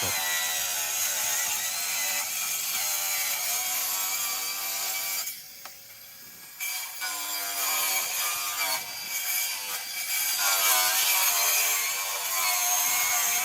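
Circular saw cutting through a sheet of plywood, its motor pitch wavering as it works through the cut. It stops for about a second roughly five seconds in, then starts cutting again.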